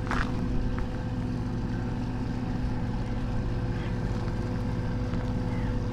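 Inboard engine of a passing motor boat running at a steady speed: an even, unchanging hum.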